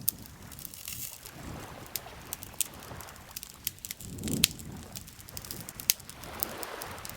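Wood campfire crackling, with frequent sharp pops and snaps. Small waves lap at the shore in soft swells about every two seconds; the strongest comes about four seconds in.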